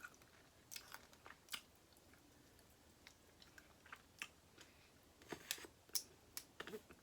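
Faint chewing and mouth sounds of someone eating seafood boil: scattered soft smacks and clicks, coming more often in the second half.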